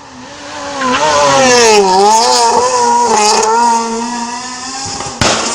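Rally car approaching and passing at speed, its engine revving with the pitch dipping and climbing, loudest about two seconds in, then fading away. A single sharp crack near the end.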